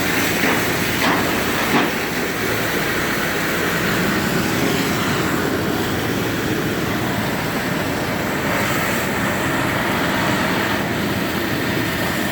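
Demolition machinery at work: a steady heavy mechanical rumble with a few sharp knocks in the first two seconds.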